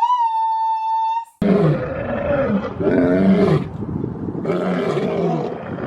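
Lion roaring, a series of about four long, rough roars in a row.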